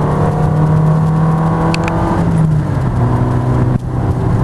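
Renault Mégane Coupé 1.6 engine with a sport air filter, heard from inside the car while driving, running with a steady drone. Its pitch steps down a little over halfway through, then holds steady again.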